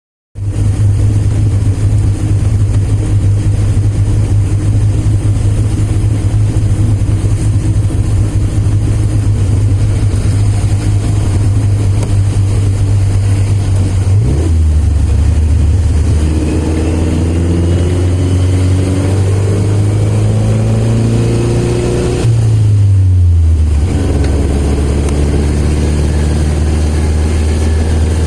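Austin 7's small four-cylinder side-valve engine running on the road as a steady low drone. About halfway through its pitch drops suddenly at a gear change, then climbs steadily as the car accelerates, and it drops again at another gear change near the end.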